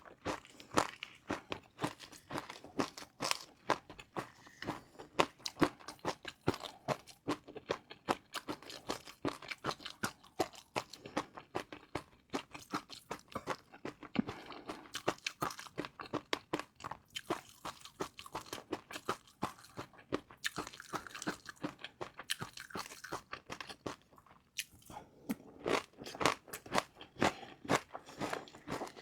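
Close-miked crunching and chewing of crispy fried noodles: a dense, irregular run of sharp crackling crunches, with a short lull about 24 seconds in.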